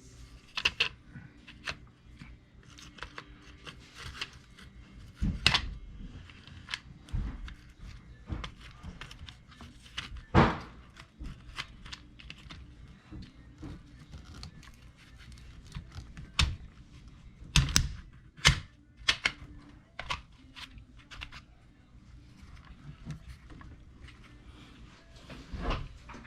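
Small plastic and metal parts of an RC truck's differential being handled and set down on a workbench: scattered clicks and knocks, with a sharp knock about ten seconds in and a cluster of clicks a few seconds later.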